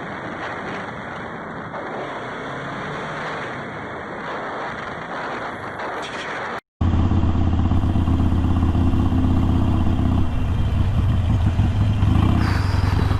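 Motorcycle riding noise: first a steady rush of wind and road noise, then, after a momentary dropout at a cut, a louder motorcycle engine running at a steady pitch.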